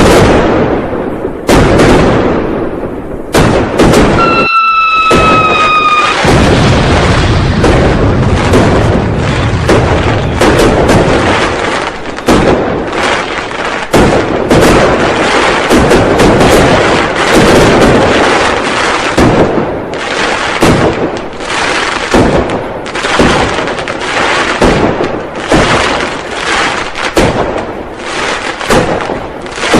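Firecrackers and fireworks going off continuously: rapid overlapping bangs and crackling with heavier booms among them. About four seconds in, a whistling tone sliding slightly downward sounds for nearly two seconds over the bangs.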